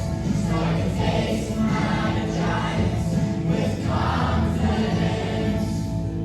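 A choir of young voices singing with instrumental accompaniment.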